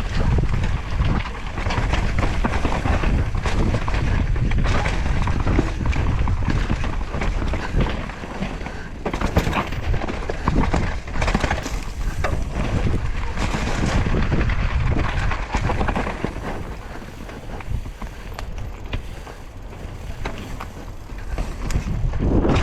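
2023 Devinci Chainsaw downhill mountain bike running fast down a dirt trail: wind buffeting the microphone over a continuous rumble of tyres, with frequent clicks and rattles from the bike over bumps. It eases off for a few seconds in the later part, then builds again.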